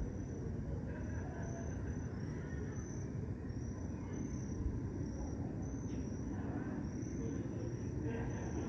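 Crickets chirping steadily, short high chirps repeating about twice a second, over a steady low rumble of distant city noise.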